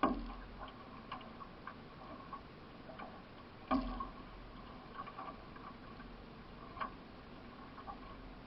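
Solo racing canoe under paddle: water dripping and splashing off the paddle with scattered light ticks, and two heavier knocks about four seconds apart.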